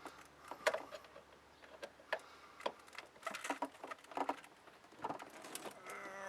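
Irregular light clicks and taps from tools and parts being handled, a few each second.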